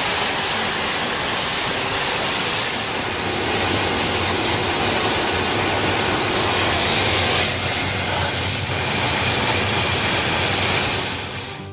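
High-pressure water spray hissing steadily against a semi tractor-trailer during a hand truck wash, over a low steady hum.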